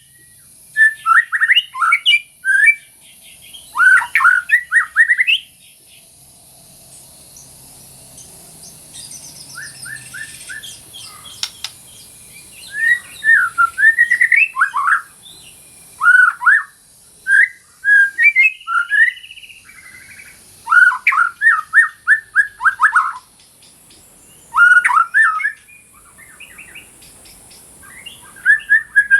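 White-rumped shama singing: loud whistled phrases delivered in short bursts with brief pauses, and a quieter stretch of several seconds about a third of the way in.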